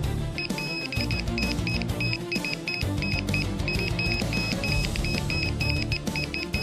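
Background music with a rapid series of short, high electronic beeps, about three to four a second, starting about half a second in and running on.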